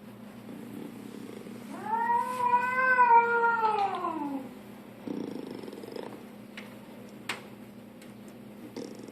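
Domestic cat giving one long drawn-out meow of about three seconds, its pitch rising and then falling away.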